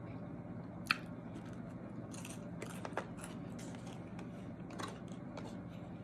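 Close-up eating sounds: a person chewing, with scattered wet mouth clicks and small crunches, and a sharper click about a second in and another near three seconds.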